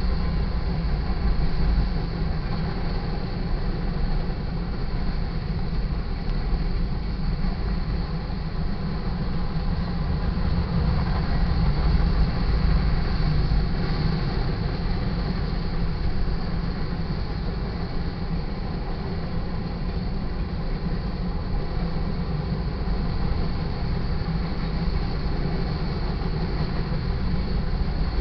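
Freight cars of a long sand train rolling steadily past a grade crossing: a continuous low rumble of wheels on rail.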